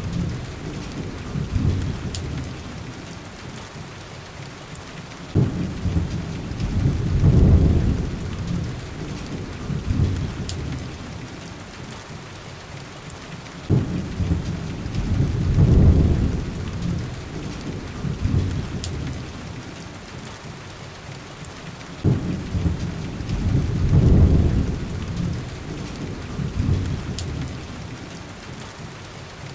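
Heavy rain on window glass, with rolling thunder that comes back about every eight seconds: each rumble starts with a sudden low crack and swells to its loudest a couple of seconds later before dying away. A faint pop sounds now and then over the rain.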